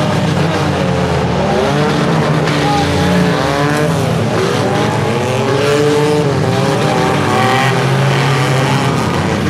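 Several compact-car engines racing at once, their pitch rising and falling in overlapping sweeps as the drivers rev and lift.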